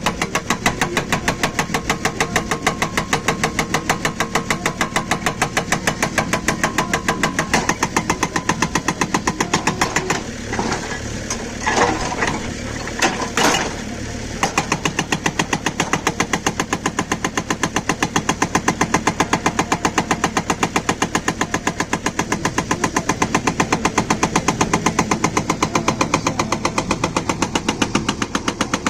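Atlas Copco hydraulic breaker on a JCB backhoe loader hammering in rapid, even blows over the running engine. The hammering breaks off for a few seconds about ten seconds in, with a few louder single knocks, then resumes.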